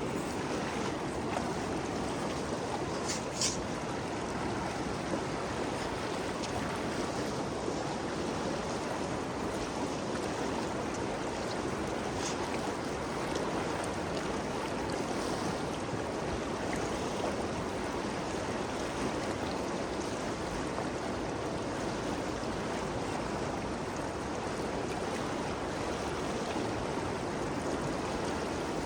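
Ganges River flowing: a steady, even rush of moving water, with two brief high ticks about three and twelve seconds in.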